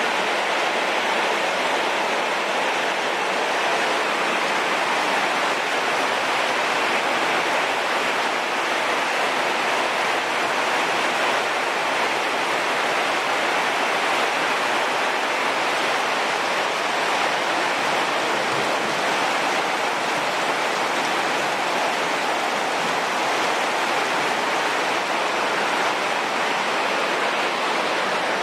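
Heavy, steady downpour of rain falling on forest leaves.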